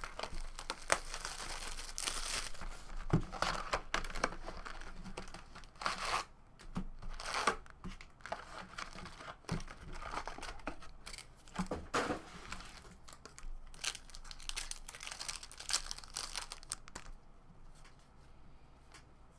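Wrapper of a 2017 Topps Series 1 baseball card pack being torn open and crinkled, with the cards inside handled, in irregular rustling strokes. The rustling stops a couple of seconds before the end.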